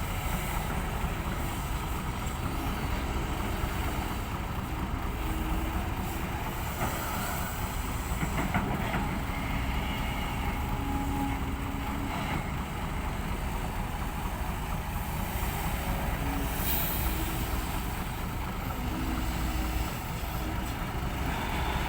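Heavy diesel engines running steadily as an excavator loads soil into a ten-wheel dump truck, with a few sharp knocks.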